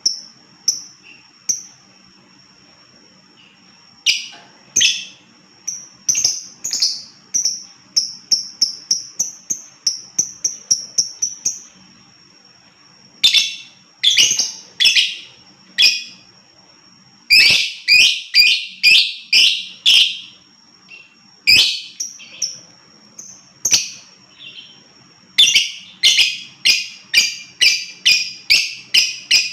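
Lovebird calling: runs of sharp, high-pitched chirps repeated quickly, about three or four a second, broken by short pauses, with the densest runs in the middle and near the end.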